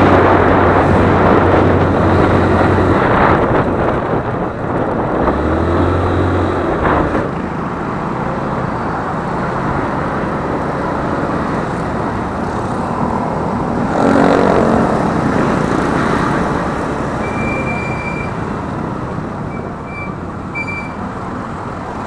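Riding a motorcycle on a road: steady wind and road noise over the microphone, with the engine running and traffic around, and a few short high beeps near the end.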